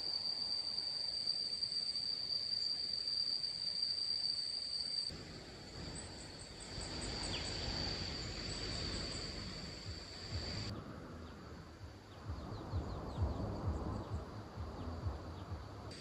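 Insects chirring in a steady high-pitched drone. The drone changes abruptly about five seconds in and again near eleven seconds. Scattered low thumps sound in the later part.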